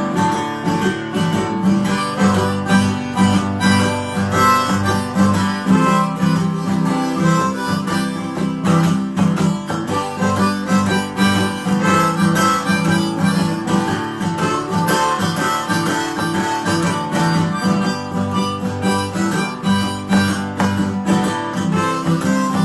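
Harmonica playing a solo over a steadily strummed acoustic guitar, an instrumental break without singing.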